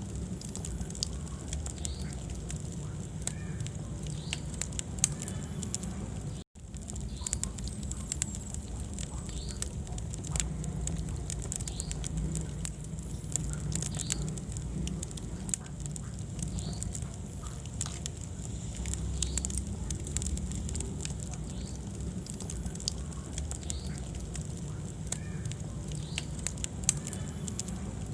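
Wood fire crackling in a fireplace: frequent sharp pops and snaps over the steady low rumble of the flames. The sound cuts out for a split second about six seconds in.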